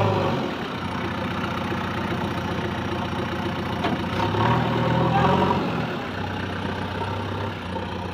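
Diesel engine of heavy farm or earthmoving machinery running near idle, revving up briefly about four seconds in and then settling back to a steady hum.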